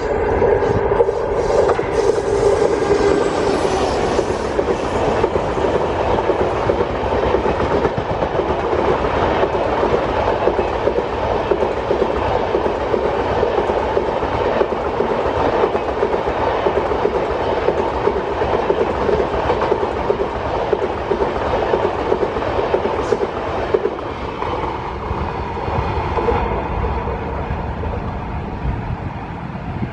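Passenger express train passing at speed, its coaches' wheels clattering steadily over the rail joints, easing slightly near the end.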